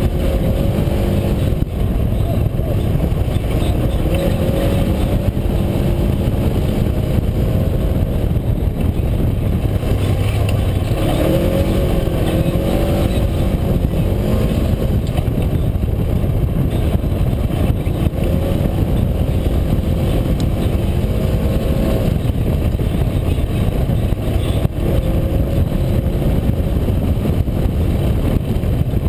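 UTV engine running while driving, its pitch rising and falling repeatedly with the throttle over a steady low rumble.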